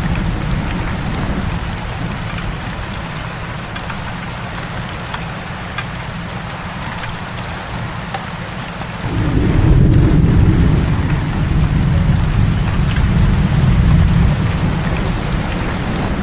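Heavy rain falling steadily, with a low rumble of thunder underneath that fades and then swells again about nine seconds in.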